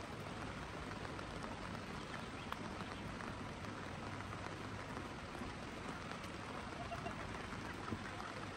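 Rain falling steadily: an even hiss with scattered small drop ticks.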